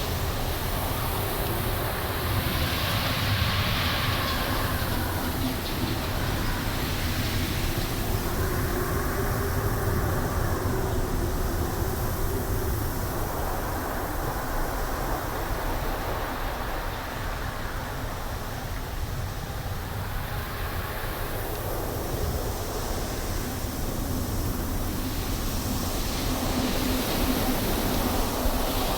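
Wind blowing through trees over a steady low rumble, swelling in gusts early on and near the middle, then easing off before building again near the end.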